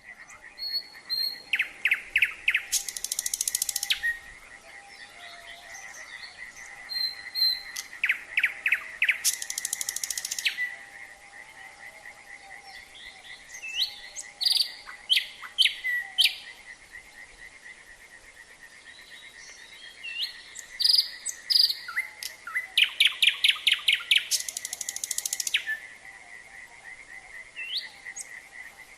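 A nightingale singing loud phrases of repeated strokes that end in fast rattling trills, four phrases with short pauses between them, over a steady, fast-pulsing chorus of calling frogs.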